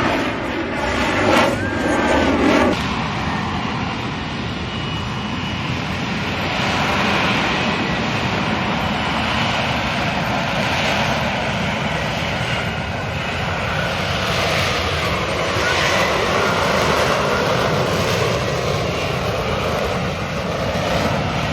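F-35 fighter's jet engine running loud during its flying demonstration, a steady rushing roar that swells and eases several times, with the downwash of a slow hover and vertical landing.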